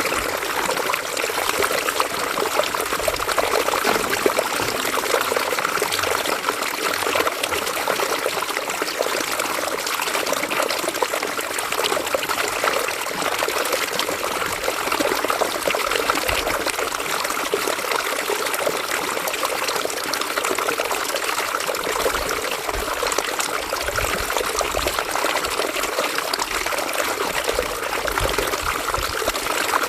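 River water running and trickling over stones in a steady, even rush with fine splashy flicker.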